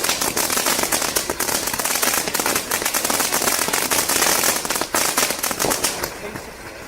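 Fireworks going off in a rapid, crackling string of many small bangs, dying away about six seconds in.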